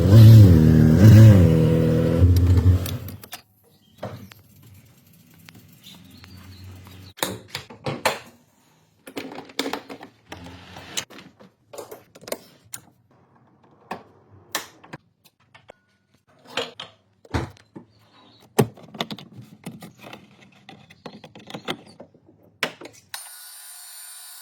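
A loud low drone that wavers in pitch for about the first three seconds, then scattered metallic clicks, clinks and knocks of hand tools and metal parts being handled. A steady hiss takes over near the end.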